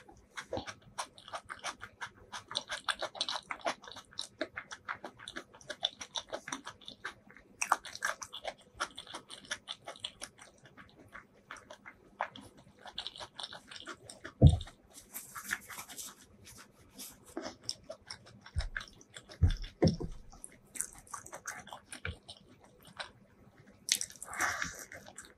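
Close-miked human chewing, a dense run of small wet mouth clicks and smacks. A few soft low thumps come midway, and a brief louder rustle of food near the end as another handful goes to the mouth.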